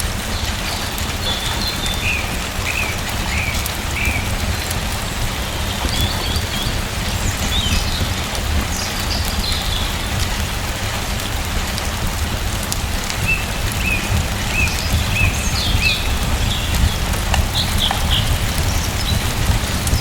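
Steady rain, with small birds chirping over it in short runs of brief calls, a couple of seconds in and again after the middle.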